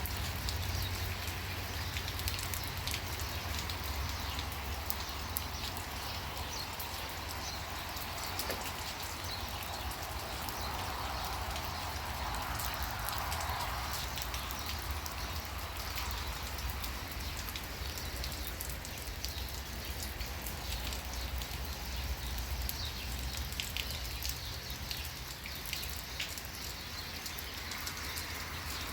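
Steady rain falling, with many small drop ticks scattered over an even hiss, above a constant low rumble.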